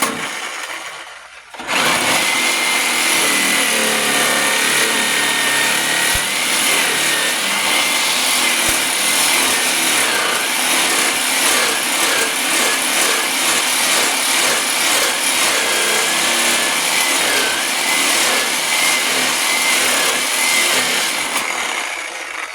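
A power tool starts up about two seconds in and runs for some twenty seconds, its motor whine dipping and recovering as it works under load, then winds down near the end.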